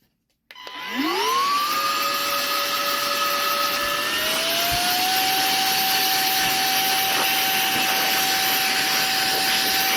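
Vogma V7 electric air duster's fan motor spinning up with a quickly rising whine about half a second in, then running steady. About four seconds in it steps up to a higher-pitched whine at a faster speed setting.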